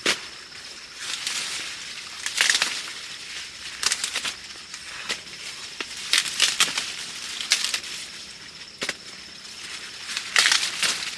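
Dry corn husks and leaves crackling and rustling in irregular bursts, over a steady high-pitched insect drone.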